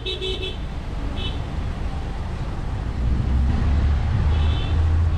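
A car engine rumbles as a vehicle drives slowly past, growing louder from about three seconds in. Short high-pitched beeps sound at the start and twice more.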